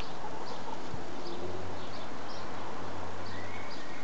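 Short high bird chirps repeating about twice a second over a steady outdoor hiss, with a single tap about a second in, likely a hen pecking in wood shavings. A low hum runs through the middle.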